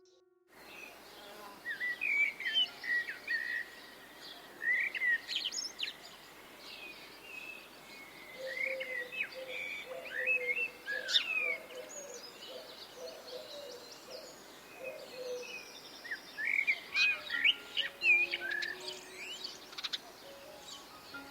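Wild birds chirping and calling in clusters of short, sweeping notes over a steady background hiss. From about 8 to 15 seconds in, a run of short, lower notes joins them.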